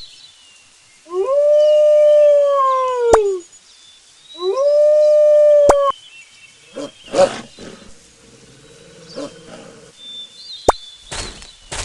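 An animal gives two long calls, each holding a steady pitch and falling away at the end, the second shorter than the first. Sharp clicks and faint bird chirps sound around them.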